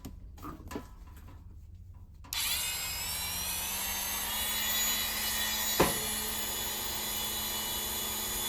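A small high-speed power tool switched on about two seconds in, its whine rising as the motor spins up and then running steadily, with one short sharp contact sound near six seconds in; it is being used to cut threads off a steel Helicoil thread insert.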